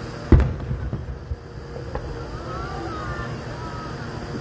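Firework shell bursting overhead with one loud boom about a third of a second in, echoing, followed by a few smaller pops, and another boom right at the end. A steady low rumble runs underneath.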